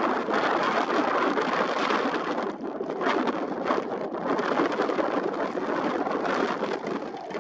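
Dense, gusty rushing noise of stormy weather ahead of a typhoon, swelling and easing, with a brief dip about two and a half seconds in.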